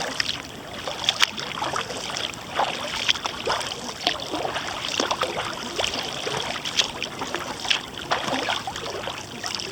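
Water splashing and trickling around a paddled kayak, as the paddle blades dip and drip.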